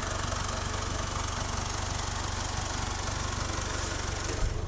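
A 2007 Mitsubishi Eclipse's 2.4-litre four-cylinder engine idling steadily, fitted with an Injen cold air intake and a Magnaflow cat-back exhaust. It is heard from the open engine bay.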